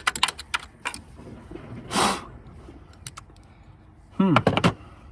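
Hand socket ratchet clicking in short runs as 8 mm valve cover bolts are broken loose, with a brief scraping rasp about two seconds in. A short voice sound comes near the end.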